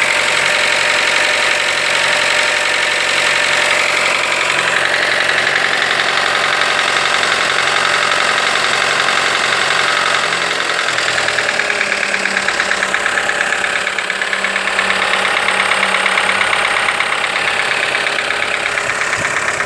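1.3 T270 turbo four-cylinder engine idling with a rapid, light ticking, the "tec-tec" that is characteristic of this engine and not a sign of a fault. The idle note shifts about eleven seconds in.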